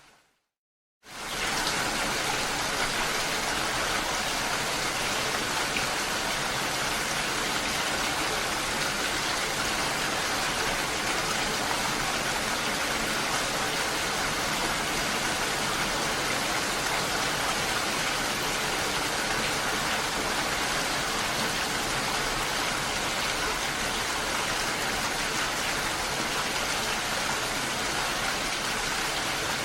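Steady sound of falling water that comes in quickly after about a second of silence and stays even.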